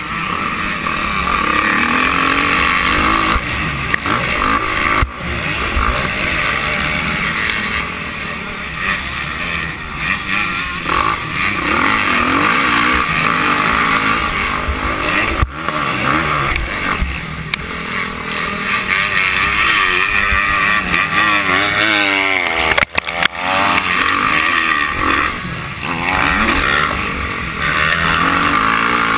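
Motocross dirt bike engines racing, revving up and down over and over as the riders work the throttle. There is a brief drop-out in the sound about three-quarters of the way through.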